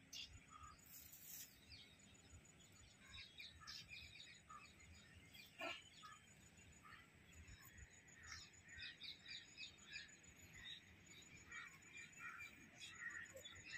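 Faint, scattered bird chirps and calls over a quiet background.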